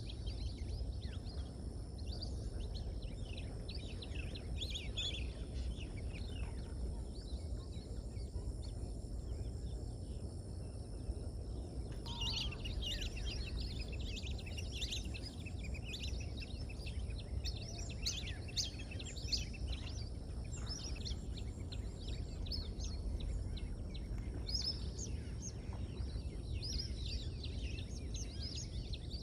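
Many small birds chirping and calling in quick, overlapping bursts, busier from about twelve seconds in, over a steady low rumble.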